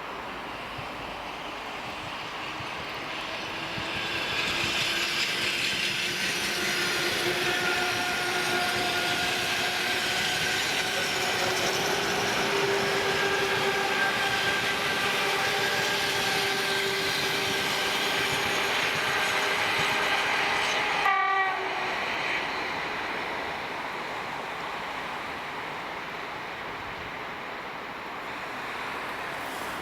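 Passenger train hauled by an EP20 electric locomotive passing at speed: the rumble and clatter of the wheels swell about four seconds in and stay loud, with a steady pitched tone running through them, then ease off after about twenty seconds.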